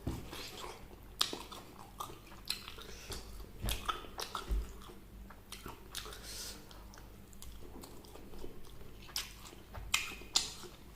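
Close-miked eating: a person biting and chewing a meal of fried chicken and vegetables, with irregular crisp crunches and wet chewing sounds.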